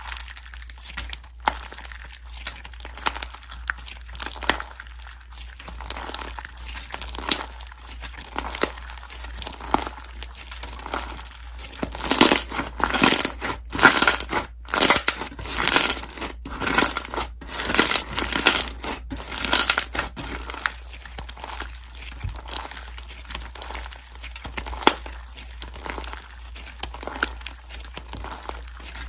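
Slime being squeezed and worked by hand, giving a run of crackling, crinkly pops and squelches that grow louder and denser through the middle stretch before easing off.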